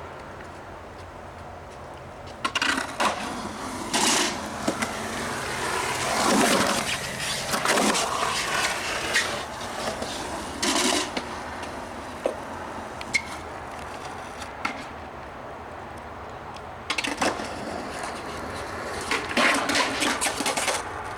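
Skateboard rolling, with sharp clacks of the board hitting and landing. There are two runs, one starting about two and a half seconds in and lasting several seconds, the other near the end.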